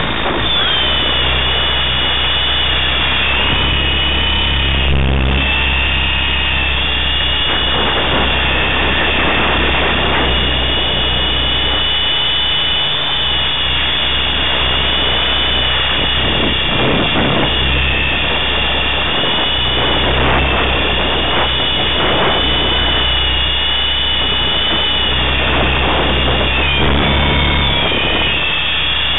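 Align T-Rex 500 electric RC helicopter in flight: a high motor and gear whine that drifts up and down in pitch as the throttle changes, over a steady low rotor drone.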